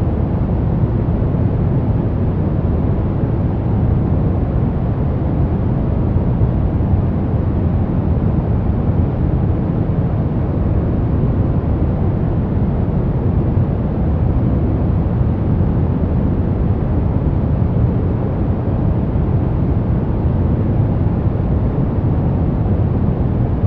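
Continuous white-noise track for sleep and relaxation: an even, unchanging rush of noise, weighted toward the low end, with no pauses or variation.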